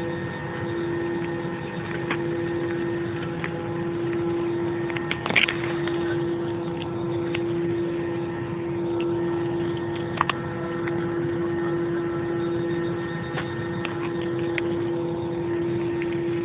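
Jet airliner engines running, heard inside the passenger cabin as a steady hum with a constant droning tone that holds one pitch. Two sharp clicks sound about five and ten seconds in.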